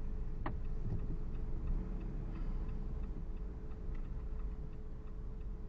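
A car's turn-signal indicator ticking at an even pace inside the cabin, over the low steady rumble of the engine and road.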